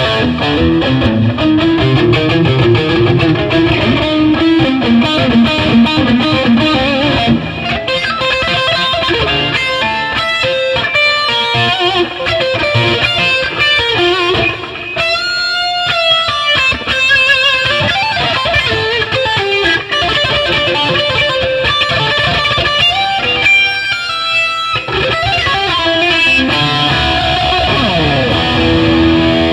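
1972 Gibson Les Paul Custom electric guitar with humbucking pickups, played through a Line 6 DT50 tube amp: a continuous run of single-note melodic lines, with a note sliding down near the end.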